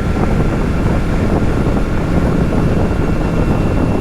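Wind rushing over the microphone on a moving motorcycle, with the Kawasaki Z650's parallel-twin engine running steadily underneath.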